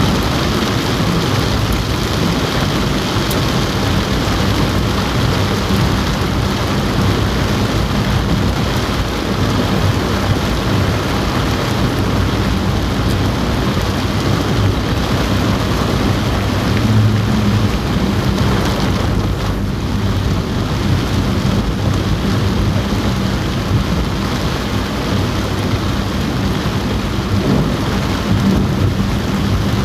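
Heavy rain falling on a car roof, heard from inside the car, as a dense steady hiss over a faint low hum.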